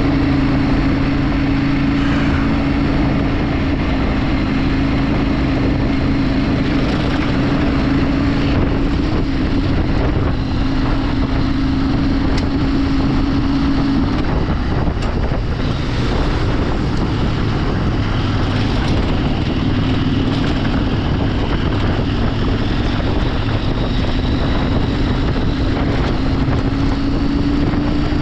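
Vehicle engine running at a steady pitch while on the move, with wind noise on the microphone; the engine tone eases off about halfway through and picks up again near the end.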